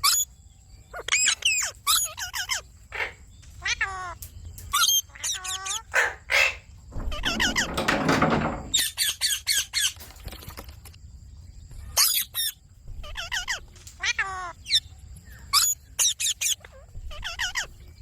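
Indian ringneck parakeets giving many short, shrill squawks and chattering calls, with one longer, rougher noise about seven to nine seconds in.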